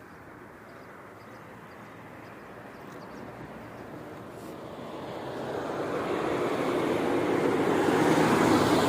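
A road vehicle approaching and passing close by: engine and tyre noise swelling steadily to a peak near the end, then starting to fade.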